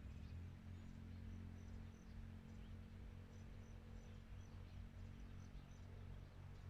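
Faint outdoor ambience: a steady low rumble with short, high chirps repeating about three or four times a second in two runs, from a small bird or insect.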